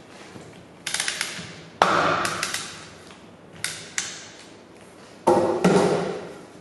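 A handful of separate knocks and scrapes from tools and metal parts being handled while a compressor clutch is taken apart. Each one dies away over about a second.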